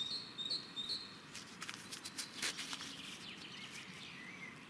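A small bird chirping a short high call, repeated about four times in the first second and once more near the end, over light rustling with scattered sharp clicks.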